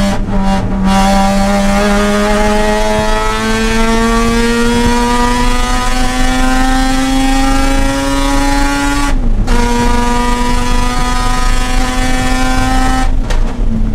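Mazda RX-8's two-rotor rotary engine pulling hard through the gears, its pitch rising steadily, with one quick upshift about nine seconds in. It climbs again, then comes off the throttle near the end, the pitch falling and breaking up.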